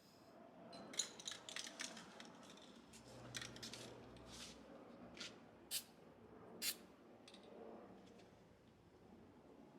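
Faint handling noises: a scatter of light clicks and rubs, with a few short, sharp hisses near the middle.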